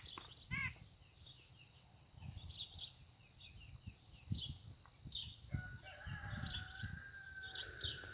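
Young cows chewing their cud quickly: soft low crunches in an irregular run, with birds chirping and fowl clucking throughout. A steady high tone is held through the second half.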